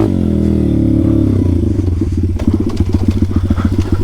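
Pit bike's small single-cylinder engine dropping in pitch as the throttle closes, then running at low revs with a quick, even chugging beat of about a dozen pulses a second.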